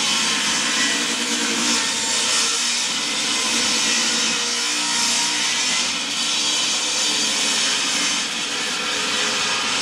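Power saw cutting along a long wooden board, running steadily under load.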